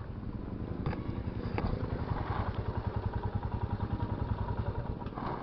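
Royal Enfield Himalayan's single-cylinder engine running with a steady low pulsing beat, getting louder about a second and a half in and easing off near the end, with a couple of light clicks.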